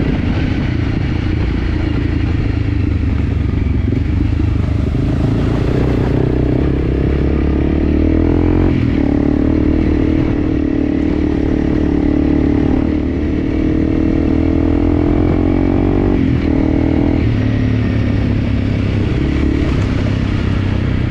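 An enduro dirt bike's engine runs under way on a trail, its note rising and falling with the throttle and briefly dropping about 9 seconds in and again near 16 seconds. A few knocks and clatters sound over it.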